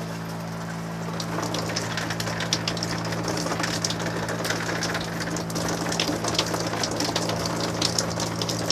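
Shower head spraying water in a spattering hiss, over a steady droning hum, while the hot water from the tankless heater is still coming through the line.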